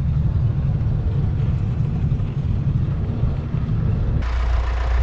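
Vehicle engine and road rumble heard from on board a moving vehicle. About four seconds in the sound changes abruptly to a steadier, deeper hum with more hiss.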